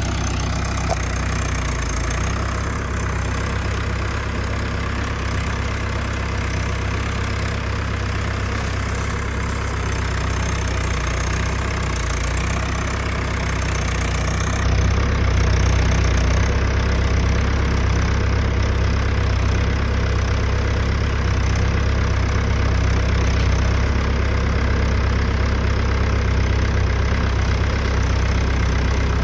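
Mahindra tractor's diesel engine idling steadily, getting a little louder about halfway through.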